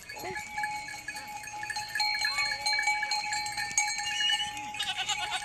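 Bells on grazing goats clinking and ringing.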